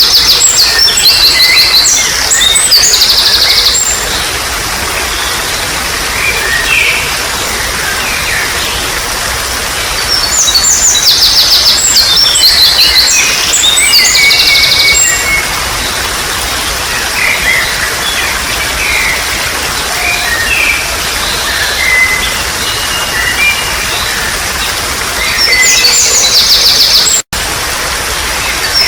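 Songbirds singing loud, rapid, high trilled phrases in three bouts: at the start, about ten seconds in and near the end, with scattered chirps between them. Under them runs a steady hiss of trickling water. The sound cuts out for a split second near the end.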